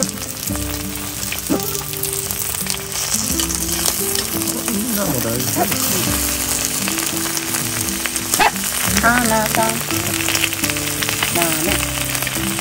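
Sausages, fried eggs and bread sizzling on a black griddle pan as tongs push the sausages around, with a sharp click now and then. Soft background music with held notes plays under the sizzle.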